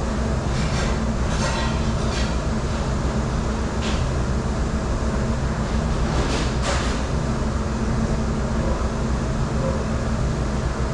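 Steady low rumble and hum of a commercial dish machine running, with a few brief hissing clatters now and then.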